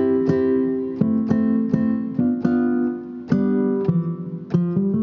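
Omnisphere flamenco nylon-string guitar patch played from a keyboard: a run of plucked chords and notes, a few a second, each ringing on as the chords change.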